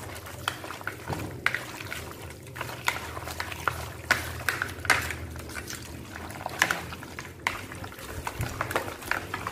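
Raw duck pieces squelching and slapping wetly as they are mixed by hand with a chao, garlic and chili marinade in a plastic basin, with irregular small clicks from a utensil.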